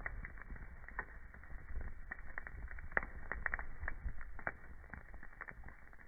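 Wood fire burning in a fireplace, crackling with frequent irregular snaps and pops over a low steady rumble.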